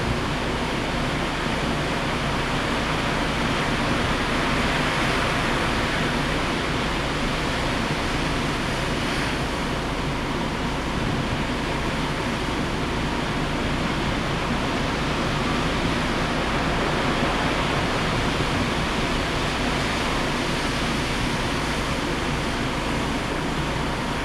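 Steady rushing noise of heavy surf and strong wind whipped up by an approaching typhoon, swelling slightly about four seconds in and again in the second half.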